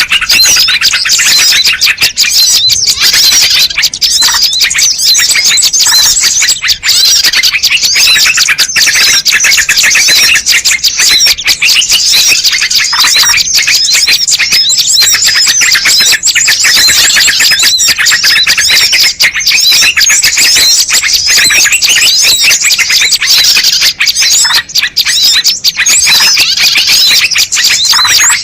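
Bird-lure recording: a dense, unbroken chorus of small songbirds chirping and twittering rapidly over one another, loud and high-pitched.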